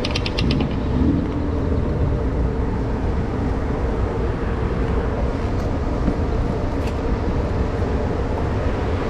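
Yamaha YZF-R1M's crossplane inline-four engine running steadily under way, mixed with wind rush on the microphone. A fast ticking stops about half a second in.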